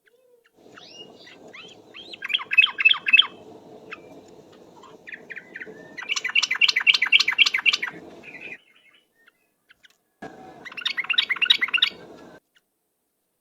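Yellow-vented bulbul (trucuk) singing in rapid chattering trills: three bursts of quick repeated notes, the middle one the longest and loudest, with short pauses between them.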